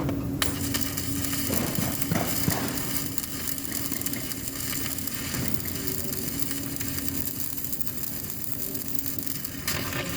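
Electric arc welding: the arc is struck about half a second in and then crackles and sizzles steadily, over a steady low hum.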